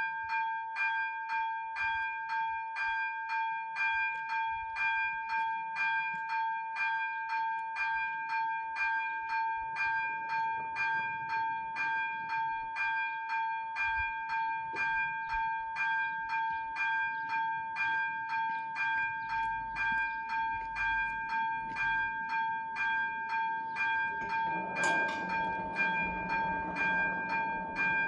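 Level crossing warning bells (ZV-03) start ringing suddenly and keep striking at about three strokes a second, signalling that a train is approaching and the crossing is closing. Near the end a low rumble builds beneath the bells as the train draws near.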